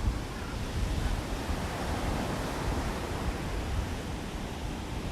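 Steady rush of sea surf, with wind noise on the microphone.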